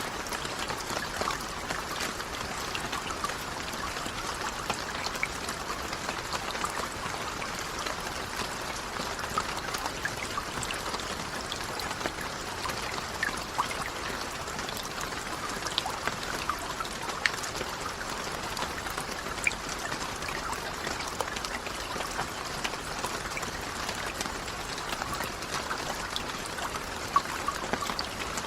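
Steady rain falling, with many separate drops heard as small sharp ticks over an even wash of water.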